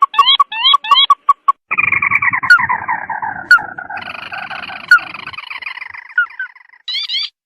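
Recorded bird-lure calls. Quick repeated rising chirps, then from about two seconds in a long falling, chattering trill that a second trill overlaps. The trills fade, and a few more chirps come near the end.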